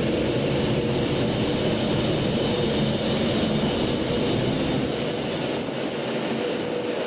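Steady machine noise: a low rumble with a few steady hums over it, the lowest part of the rumble falling away about five seconds in.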